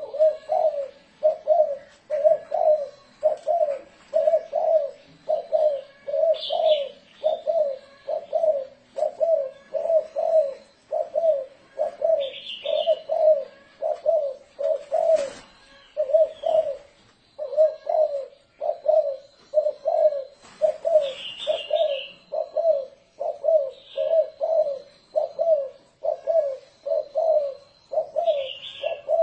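Spotted dove cooing in a steady, unbroken run of low coos, a little more than one a second: the rolling 'thổ rền' call used to lure wild doves. Short high chirps from smaller birds come in now and then, and a single click sounds about halfway through.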